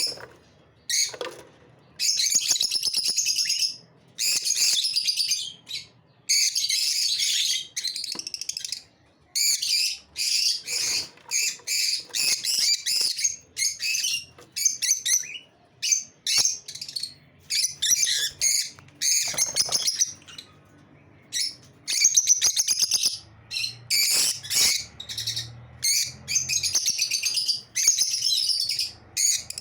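Lovebirds chattering in high-pitched, rapid chirps, in repeated bursts of one to two seconds with short pauses between.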